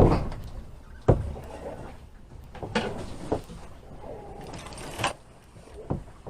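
A series of irregular knocks and thumps, about six in six seconds, over a faint steady hiss.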